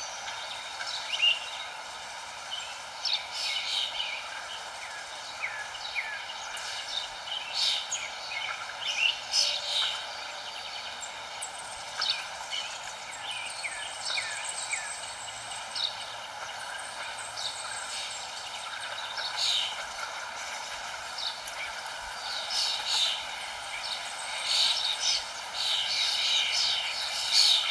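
Several small songbirds chirping and twittering in short, quick notes over a steady background rush; the chirping grows busier near the end.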